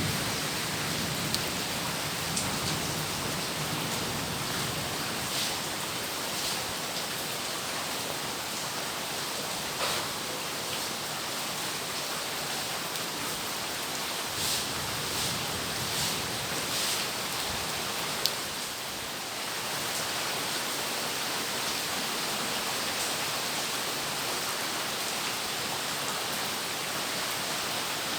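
Heavy rain falling steadily, an even hiss with scattered louder drips and splashes. The tail of a thunder rumble fades out in the first couple of seconds.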